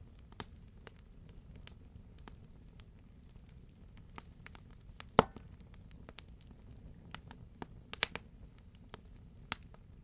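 Campfire crackling: scattered sharp pops over a low steady rumble, with one loud pop about halfway through and a quick cluster of pops later on.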